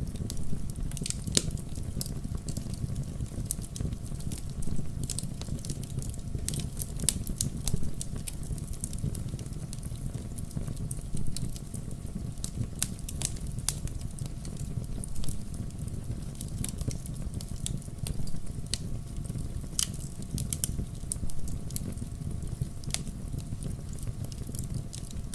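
Wood campfire burning, with a steady low rumble of flame and frequent irregular crackles and pops.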